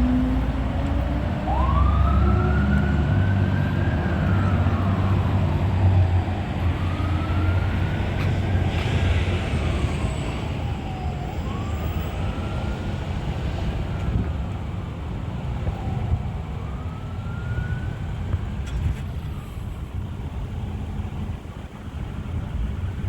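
Fire engine's siren on a slow wail, rising and falling about every five seconds, over the loud low rumble of the truck's engine that fades near the end.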